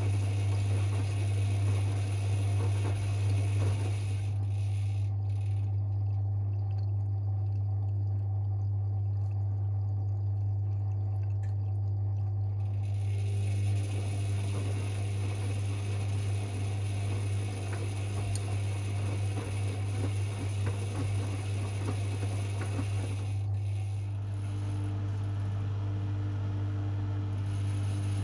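Privileg 5020 front-loading washing machine in its wash cycle: motor running with a steady low hum, drum turning the laundry with water sloshing and a mechanical rattle. The higher, rattly part of the noise drops away for several seconds, then returns.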